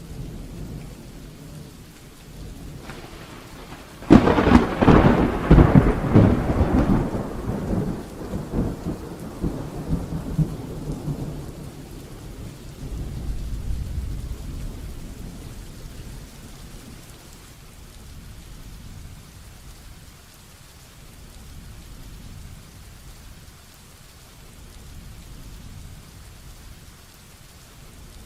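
Heavy rain falling steadily, with a close thunderclap about four seconds in that crackles for a few seconds and then rolls away in low rumbles, dying down into the rain about halfway through.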